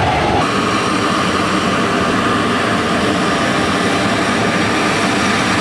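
Regional jet's turbofan engines running, a steady whine over a broad engine rush. The whine jumps to a higher pitch about half a second in and then holds steady.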